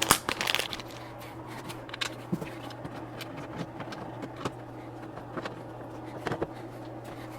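Scattered small clicks and taps of screws and hard plastic parts being handled during hand assembly, over a steady low hum, with a sharper click right at the start.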